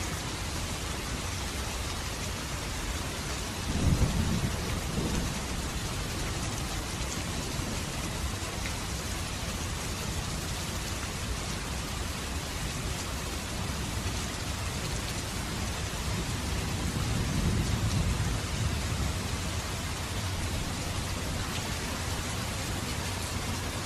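Steady heavy rain, with a sharp low rumble of thunder about four seconds in and a longer, softer roll of thunder swelling and fading past the middle.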